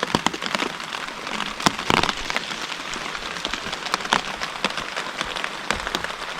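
Steady rain falling, with irregular individual drops tapping sharply on a nearby surface.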